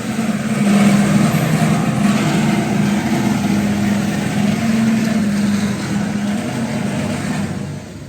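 A machine's motor or engine running steadily with a low hum, then dying away near the end.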